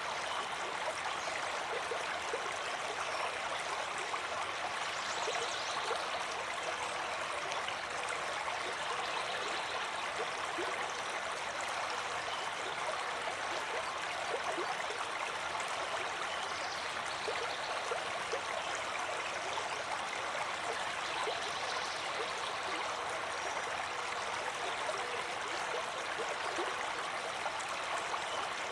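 Water flowing in a stream, a steady rush of water with small gurgles.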